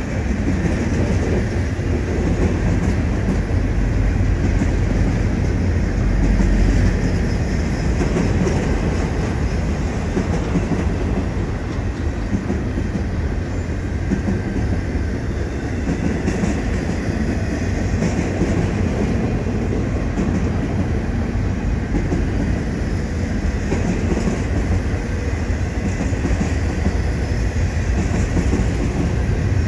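Double-stack intermodal freight train rolling past, a steady rumble of steel wheels on the rails and rattling well cars.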